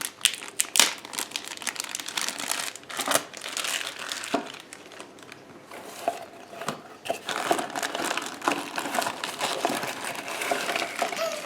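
Plastic packaging crinkling and rustling while the pieces of a Play-Doh toy set are unpacked, with sharp clicks of plastic being handled.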